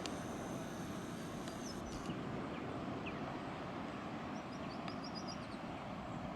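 Songbirds chirping faintly over a steady rush of outdoor background noise, with thin high notes near the start and a quick run of short chirps about four and a half seconds in.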